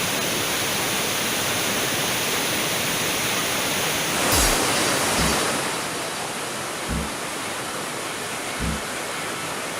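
Waterfall rushing, a steady loud noise of falling and splashing water. A little past halfway it turns duller, and a few short low thuds come through.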